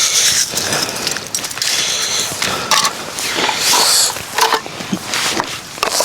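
Camping gear being handled: irregular rustling, scraping and crunching with a few light clinks.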